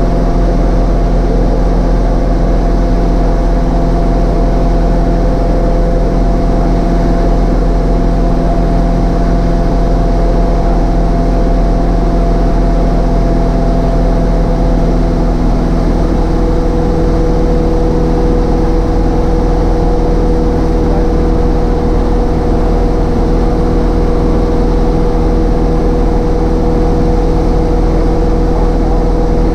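Cessna 152's four-cylinder Lycoming O-235 engine and propeller droning steadily in flight. The engine note shifts slightly about halfway through.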